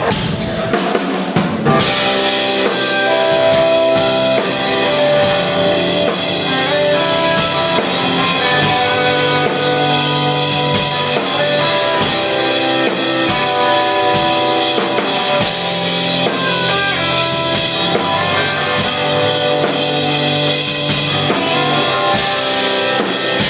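Live band playing an instrumental intro, with a drum kit keeping a steady beat under sustained guitar chords; the full band comes in about two seconds in.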